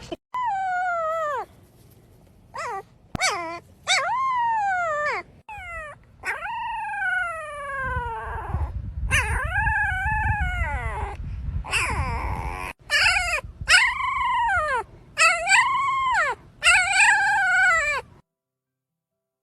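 A dog whining and howling: a series of high cries, some sliding down in pitch and others rising then falling, with short breaks between them. The cries stop shortly before the end.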